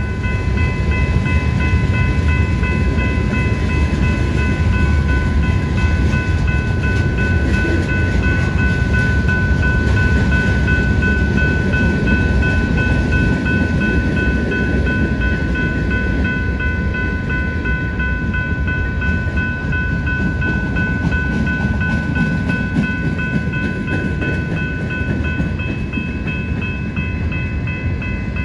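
Freight cars of a passing BNSF freight train rolling by: a steady loud rumble of wheels on rail, with several steady high-pitched tones ringing over it.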